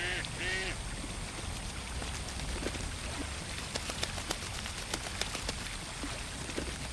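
A duck quacking twice at the start, then a patch of light splashing and dripping water: a scatter of quick small ticks that lasts a few seconds and then thins out.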